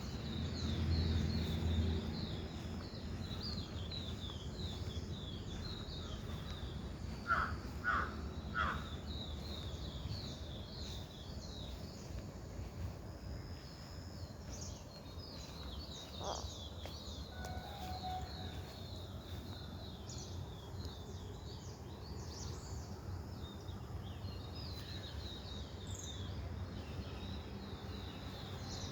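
Small birds chirping in quick, repeated high notes, while a crow caws three times in quick succession about a quarter of the way in. Under it runs a steady low background rumble, louder in the first couple of seconds.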